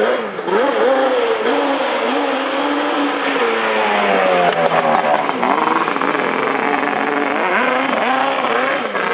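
Off-road dirt bike and quad engines revving, their pitch rising and falling repeatedly as the throttles open and close, with more than one engine heard at once around the middle.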